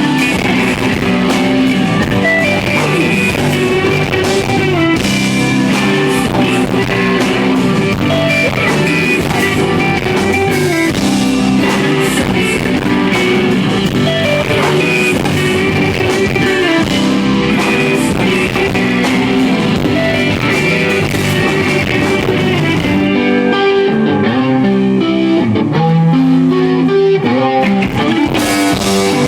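Live rock band playing, with guitars to the fore over bass and drums. For about five seconds near the end the drums and cymbals drop out, leaving the guitars, and then the full band comes back in.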